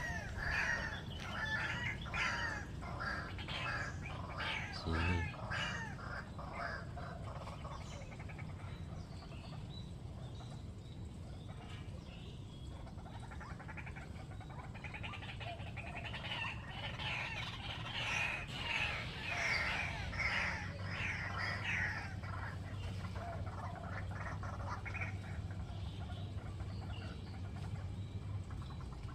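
White-breasted waterhen calling: fast, harsh, repeated notes in two long bouts, the first in the opening eight seconds and the second from about fifteen to twenty-two seconds in, over a steady low hum. There is a brief low thump about five seconds in.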